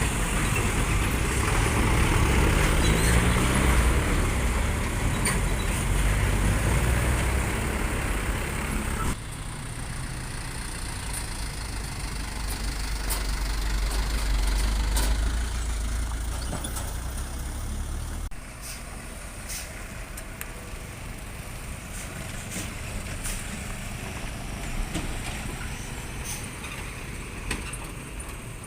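Heavy diesel truck engine running under load, its pitch climbing in steps in the first few seconds. The sound drops abruptly twice, about a third and two-thirds of the way through, to a quieter steady engine running with scattered sharp clicks.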